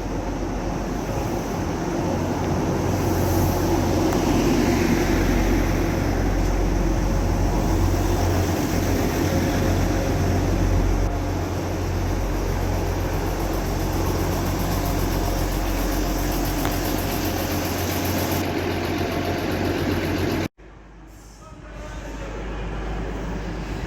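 A train running through on the tracks: a steady rumble with rail noise. It cuts off abruptly near the end, and a quieter train sound starts to build.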